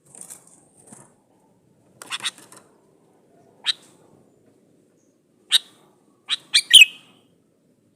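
Male sooty-headed bulbul calling: a few short, sharp notes spaced well apart, then a quick run of three or four louder notes near the end.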